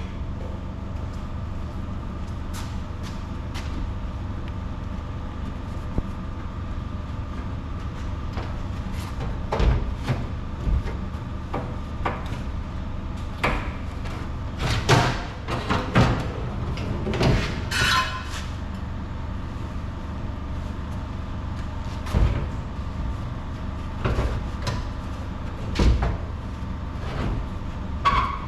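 Scattered metallic clanks and knocks from steel truck body parts and hand tools being handled and bolted up, some of them ringing briefly, over a steady low background hum.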